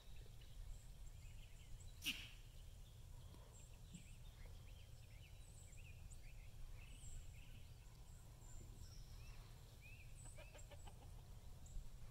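Faint outdoor birdsong: scattered short bird chirps over a low steady rumble, with one sharp click about two seconds in.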